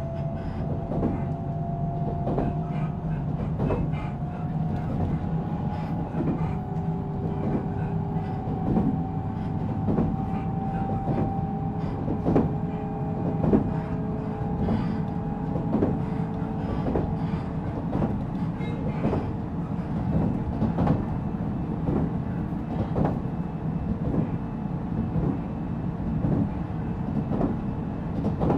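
Onboard running sound of a JR Central 313 series 0-subseries electric train, heard inside motor car MoHa 313-7. The wheels rumble steadily on the rails with regular clacks over rail joints, and a traction-motor whine rises slowly in pitch over the first half, then holds and fades.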